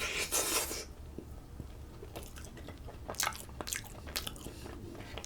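A person taking a bite of food and chewing, with wet, crunchy clicks as they chew. There is a louder noisy bite at the start, then a run of short crackles in the middle.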